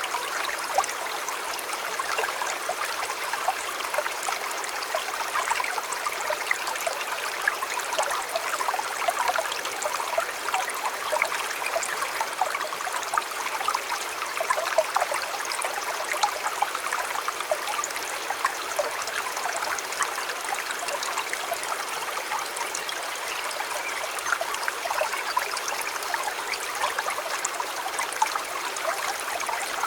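A shallow river or stream babbling steadily over stones, a continuous wash of water sprinkled with many small splashes and gurgles.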